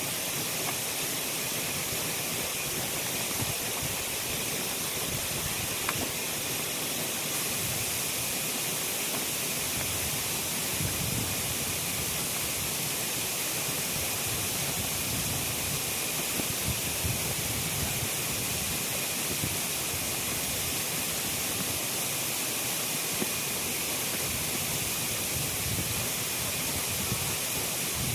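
Steady hiss of light drizzling rain, with an occasional faint tick.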